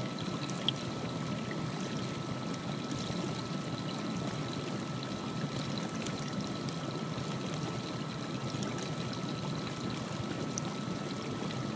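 GE Monogram dishwasher running, with a steady rush of water spraying inside the tub, and a faint, steady high tone.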